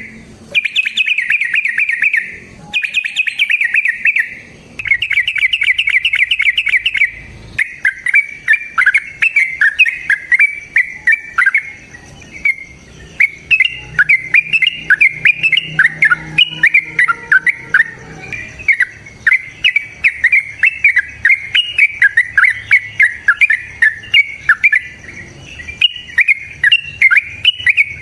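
A cage bird singing: long, rapid buzzing trills in the first seven seconds, then a dense run of quick chattering notes.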